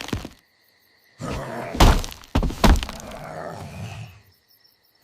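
Two loud thuds with a breaking, cracking sound, within about three seconds of crashing noise that starts about a second in and dies away near the end.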